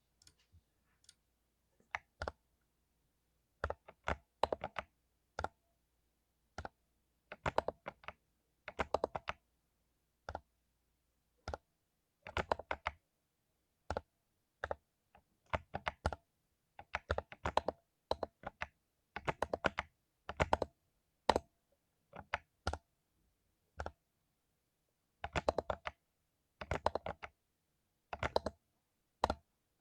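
Mechanical keyboard with lubed Cherry MX Silver linear switches being typed on: quick clusters of keystrokes in irregular bursts, with short pauses between them.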